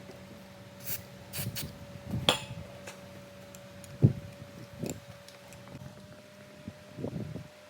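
Scattered light knocks and clicks of tools and motorcycle handlebar parts being handled during a grip change, the sharpest knock about four seconds in, over a faint steady hum.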